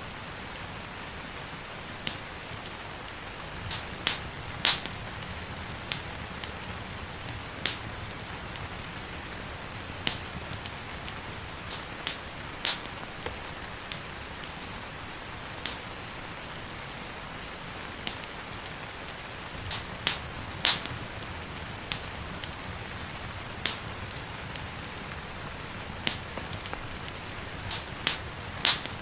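Steady hiss of gentle rain under a low rumble, with irregular sharp pops and crackles from a wood fire burning in a fireplace, roughly one or two a second.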